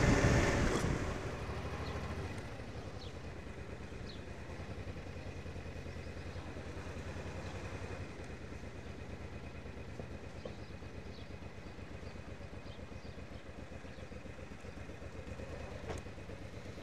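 Suzuki Intruder VL1500's V-twin engine ticking over at low revs with an even pulse. Wind and road noise from riding at speed die away in the first second or two. A single sharp click comes near the end.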